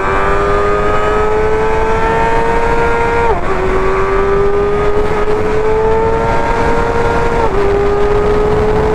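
2024 Kawasaki ZX-6R's 636 cc inline-four running at high revs under hard acceleration, its note climbing steadily and dropping sharply twice, about four seconds apart, at upshifts.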